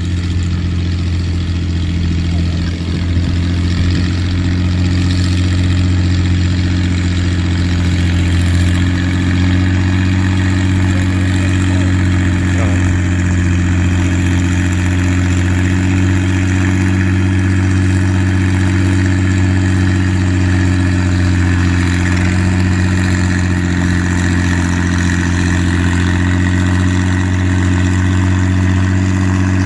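Farm tractor engine running steadily at an even pitch, getting a little louder about three seconds in.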